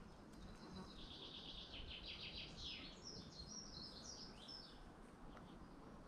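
A songbird singing faintly: one long song of rapid, evenly repeated high notes lasting about four seconds, climbing higher in its second half.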